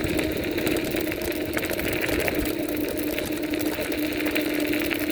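Vivi 26-inch 350 W e-bike's electric motor whining steadily at full throttle, one held tone, with wind noise on the microphone and light rattling clicks from the bike over the road.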